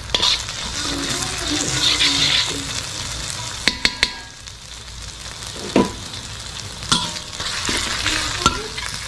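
Pounded fresh turmeric and bird's-eye chilli paste sizzling in hot oil as it is sautéed, stirred with a metal spoon that scrapes and clicks against the pan. There is a quick run of three clicks a little under four seconds in, and single clicks later.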